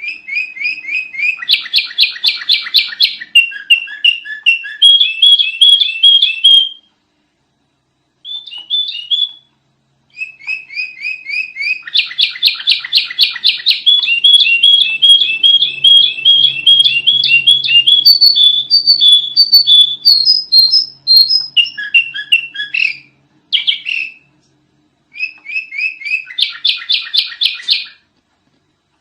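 Sooty-headed bulbul (kutilang) singing loud, fast runs of repeated chirping notes, in several long bursts broken by short pauses.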